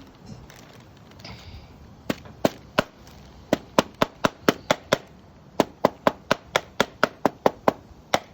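A hammer tapping repeatedly on a flower laid under a paper towel on a plastic-covered cutting board, pounding the petal pigment into the towel. Sharp knocks start about two seconds in and come in quick runs of roughly three a second, with short pauses between runs.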